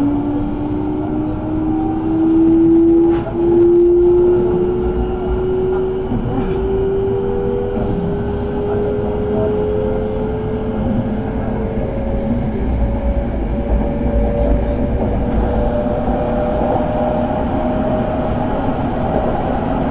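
Electric train heard from inside the car: traction motor whine rising steadily in pitch as the train accelerates, over the low rumble of wheels on the rails. It swells louder for a moment about two to four seconds in.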